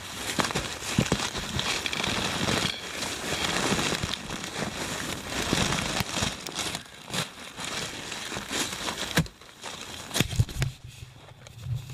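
Digging for a metal detector target: soil and clods crunching and scraping as the hole is dug and the dirt is broken up by hand, with many scattered clicks.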